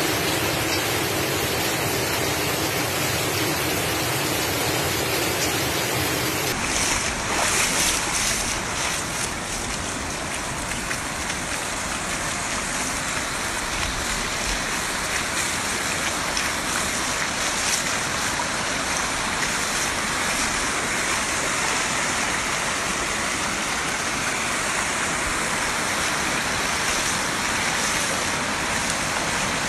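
Heavy rain pouring steadily, then, after a cut about six seconds in, the rush of muddy floodwater flowing across a road in the rain.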